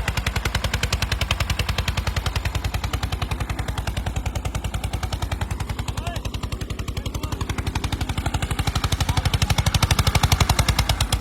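Tractor diesel engine running with a rapid, very even exhaust beat of about ten pulses a second, growing louder near the end.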